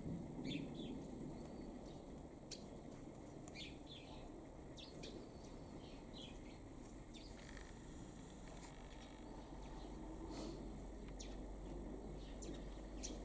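Faint open-air background with scattered short, high bird chirps on and off, over a low steady rumble.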